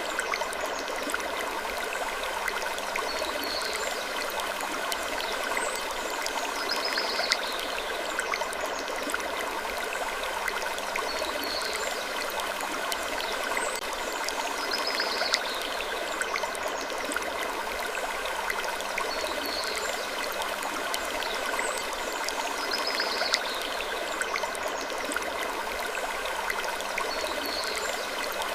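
Wood creaking gently, a short high creak coming back roughly every two seconds, over a steady crackly hiss.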